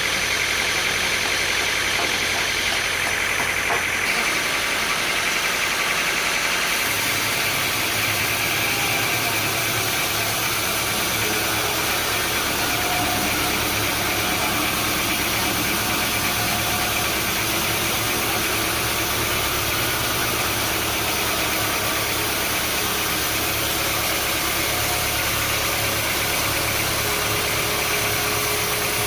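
Sawmill machinery running steadily, a continuous engine-like hum and noise whose low hum shifts about seven seconds in.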